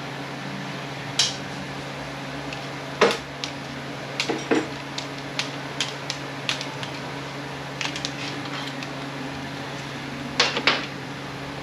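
Hand tools and steel transmission parts clinking and clanking irregularly during teardown of an automatic transmission, about a dozen sharp knocks with the loudest about three seconds in and a pair near the end, over a steady low hum.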